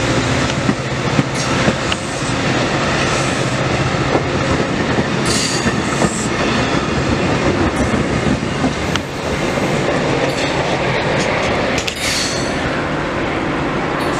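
A MARC commuter train's passenger coaches roll past close by in a loud, steady rumble, the wheels clacking over the rail joints. The wheels give a brief high squeal twice, about five and a half seconds in and again near the end.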